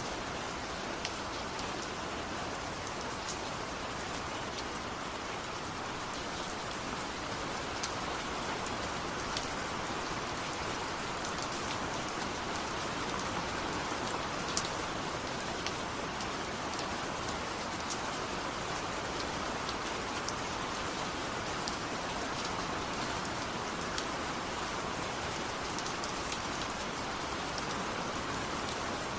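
Steady rain falling, with a dense patter and scattered sharper drop ticks.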